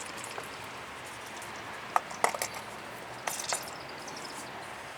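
Propane torch burning with a steady hiss while it heats an oil-sprayed cast-iron brake caliper, with a few sharp ticks and crackles about two seconds in and again past the middle.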